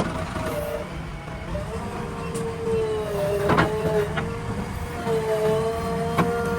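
Backhoe loader's diesel engine running under load with a steady whine over a low rumble, and sharp metallic knocks about halfway through and again near the end.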